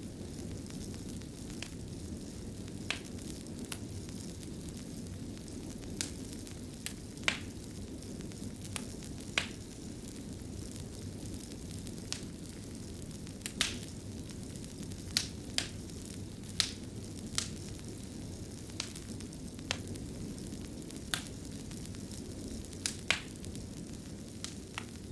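Wood fire crackling in a fireplace: a steady low hiss with sharp, irregular pops and snaps, roughly one or two a second.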